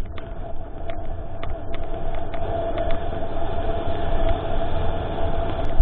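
Mountain bike riding over a trail, heard from a bike-mounted action camera: a heavy wind rumble on the microphone, scattered rattling knocks from the bumps, and a steady squealing tone throughout.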